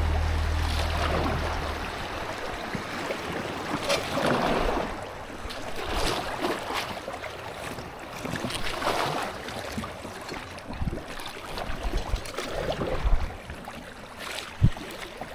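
Kayak paddle strokes swishing and splashing through river water, a stroke every two to three seconds, with a few sharp knocks near the end.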